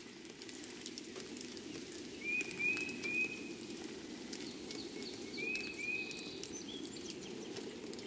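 Wild birds calling in the early morning: a quick run of three short chirps about two seconds in and two more around five and a half seconds, over a steady low background rumble.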